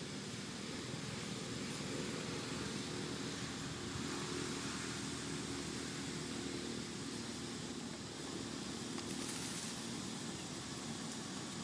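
Steady outdoor background noise with a low, even motor-like hum underneath.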